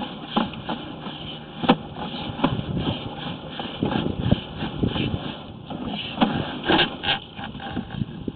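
Sewer inspection camera and its push cable moving through the drain pipe: irregular knocks and scraping over a steady hiss, with the sharpest knocks about a second and a half in and again near seven seconds.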